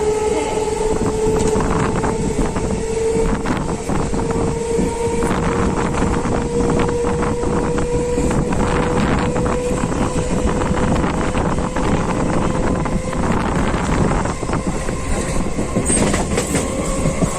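Electric local train running along the line, with wheel clatter and knocks over a steady whine that rises slowly in pitch as the train picks up speed.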